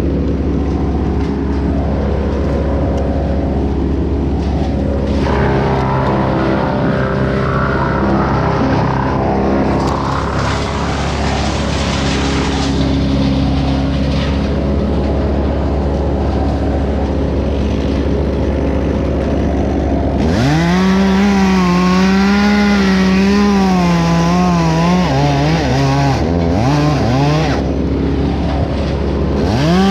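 An engine runs steadily. About two-thirds of the way through, a two-stroke chainsaw revs up high, its pitch wavering as it cuts; it drops back briefly near the end and then revs up again.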